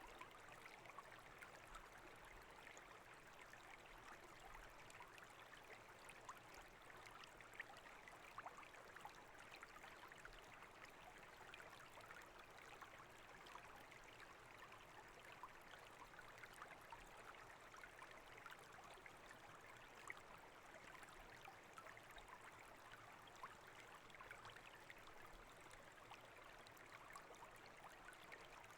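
Faint, steady burble and trickle of water flowing in a brook.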